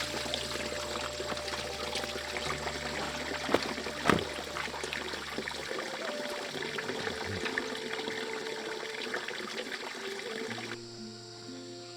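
Water pouring with a dense crackling splash, over background music, with two sharp knocks about three and a half and four seconds in; the water stops near the end.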